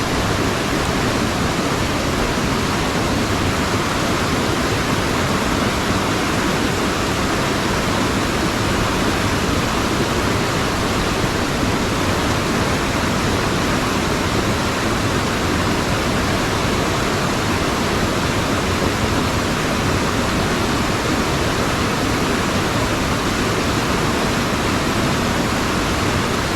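Loud, steady rush of a mountain stream's white water pouring over rocks, unchanging throughout.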